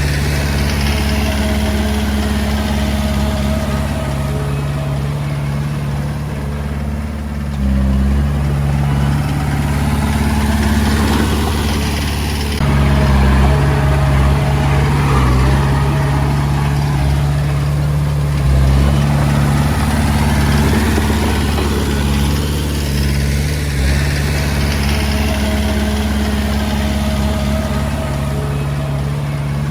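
Bulldozer diesel engine running steadily, its note and loudness stepping up and down several times as the load changes.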